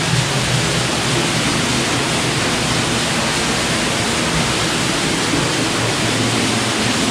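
Steady rushing of mill-race water shooting past a stalled water wheel, which is jammed and not turning.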